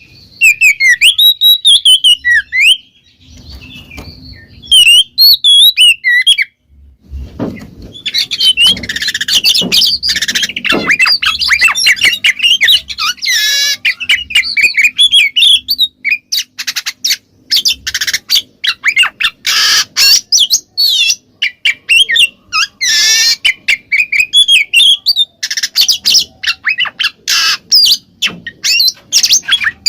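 Oriental magpie-robin (kacer) singing loudly. First come varied clear whistled phrases with short pauses. From about seven seconds in it breaks into a dense run of rapid warbles mixed with harsh rasping calls.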